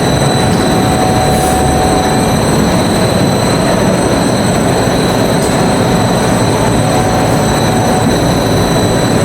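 CNC machine running: a loud, steady mechanical rush with high, constant whining tones.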